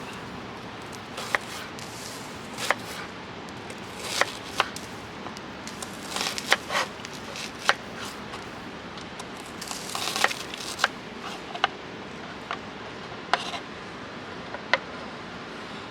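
Knife chopping food on a cutting board: irregular single cuts and short runs of quick chops over a steady background hiss.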